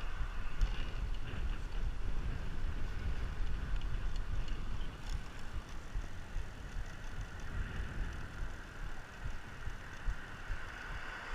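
Wind rumbling on the microphone of a moving bicycle, over a steady hiss of tyre and road noise, with a few faint ticks. It eases off slightly about halfway through.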